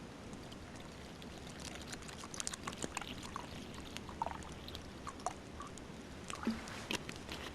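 Water being poured into a small pot to boil ground coffee, with a few light clinks and small knocks.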